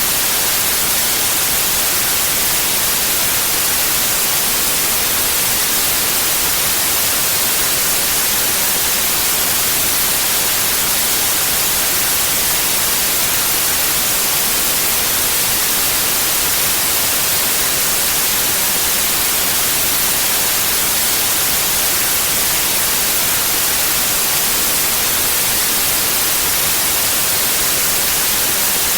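Steady white noise: a constant, even hiss, strongest in the high frequencies, with no change over time.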